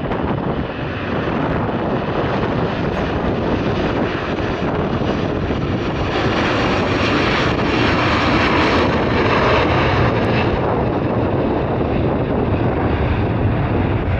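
Jet airliner engines passing by, a loud rushing noise that swells to its loudest about halfway through and then eases slightly.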